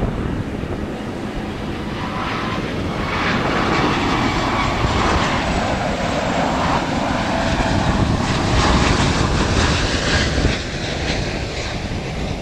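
Airbus A330-300 airliner's jet engines on landing approach, passing by: a steady jet noise that swells to its loudest about two-thirds of the way through, with a sweeping shift in pitch as it goes past. Wind buffets the microphone underneath.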